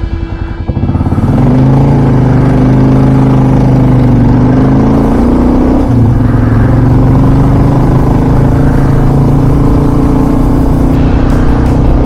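Motorcycle engine running loud and steady under way, coming up strongly about a second in, with a brief dip about six seconds in before it pulls on.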